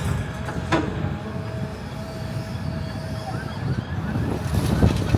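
Road traffic passing on a city street, with a low rumble that grows louder near the end as a vehicle goes by close. A faint steady whine is held for a couple of seconds early on.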